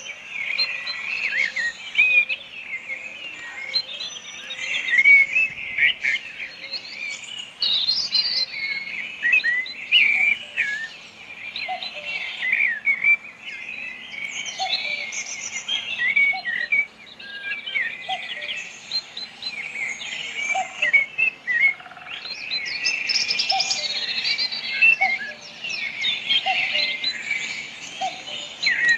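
Many small birds chirping and calling at once, a dense overlapping chorus of short high chirps, with a faint lower note repeating about once a second beneath it.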